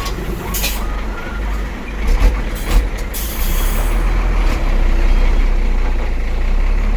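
Diesel dump truck engine running with a steady low rumble, with several short air hisses, the longest about three seconds in.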